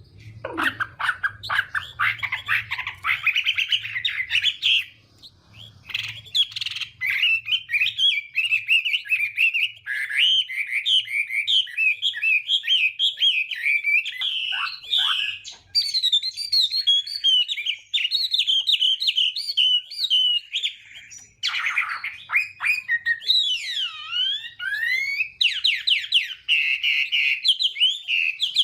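Chinese hwamei (họa mi) singing a long, varied song of rapid trills and slurred whistled notes that rise and fall, with a short pause about five seconds in.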